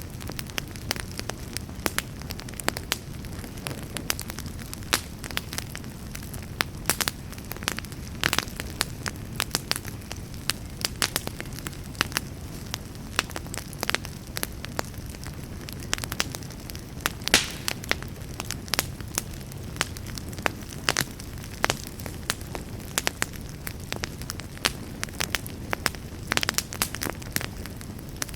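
Wood fire burning in a fireplace: a steady low rumble of flames with frequent sharp crackles and pops from the burning logs, several a second.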